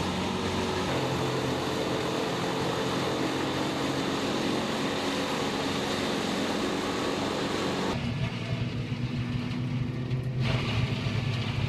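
Wood chipper's engine running steadily with a broad rushing noise over its hum. About eight seconds in, the high rushing drops away suddenly and a lower engine hum carries on.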